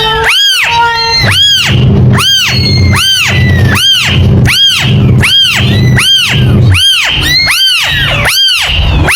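Kitten meowing over and over at an even pace, about one high-pitched meow a second, each rising then falling in pitch, with fainter calls in the background and a low hum through the middle of the stretch.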